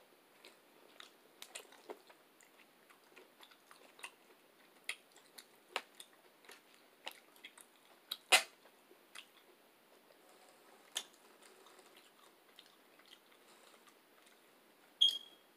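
Close-up chewing of a mouthful of food, with scattered short wet mouth clicks and lip smacks. The sharpest click comes about eight seconds in.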